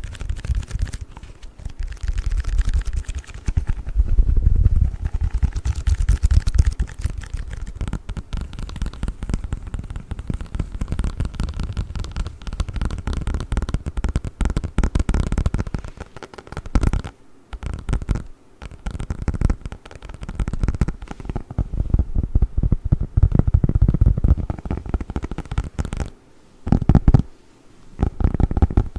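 Package of play foam handled close to the microphone: a dense run of crackling and rubbing with a deep low rumble, dropping out briefly twice in the latter half.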